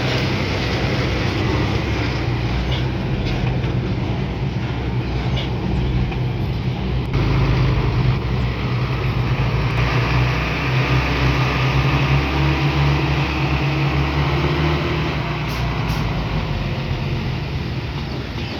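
A bulldozer's heavy diesel engine runs steadily under load as the machine works soil. The engine gets louder through the middle of the stretch and eases off near the end.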